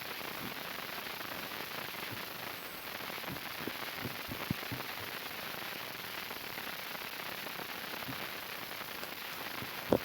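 Slime being squished and poked by hand: scattered small clicks and pops over a steady hiss, with a sharp, louder pop right at the end.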